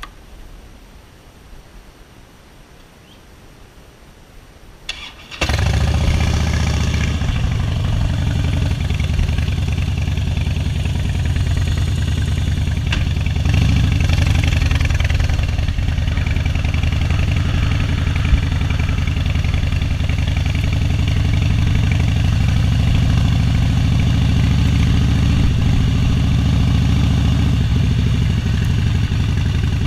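A vehicle engine starts about five seconds in after a short click, then runs steadily with a low hum.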